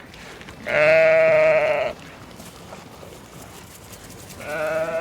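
Sheep bleating: two long, wavering bleats, the second starting near the end.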